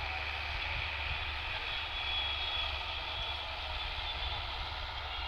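Belarus tractor's diesel engine running steadily with a low, even drone.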